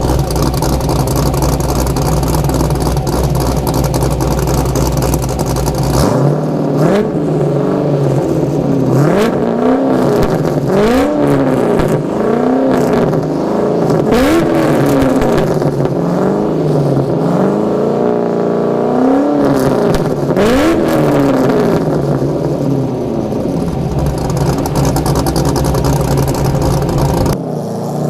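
LS 5.3 V8 running through homemade headers and exhaust: it idles, then from about six seconds in it is blipped up and down over and over, one rev every couple of seconds, and it settles back to idle near the end.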